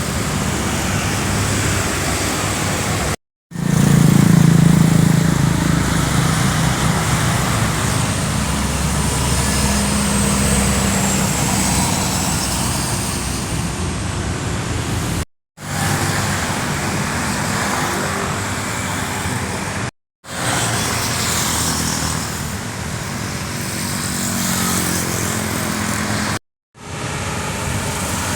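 Heavy diesel trucks running on an uphill road, their engines labouring; a deep engine note is loudest a few seconds in. The sound cuts out abruptly four times, each time for a moment.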